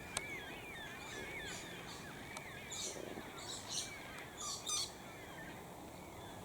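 Faint wild bird calls. A run of quick, short, chirping notes comes first, then several short, harsh, hissy calls between about three and five seconds in.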